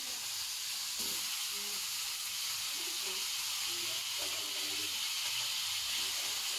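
Marinated chicken pieces frying in hot oil in a wok with sautéed garlic and onion: a steady sizzling hiss.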